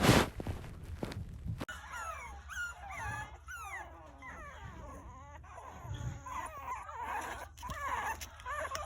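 A litter of Shichon-poo puppies whimpering and crying, many short high-pitched whines rising and falling and overlapping. A loud burst of rustling noise fills the first second and a half before the whines begin.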